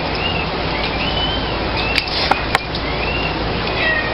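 A steady rushing hiss, with a small bird chirping repeatedly over it and three sharp clicks about two seconds in.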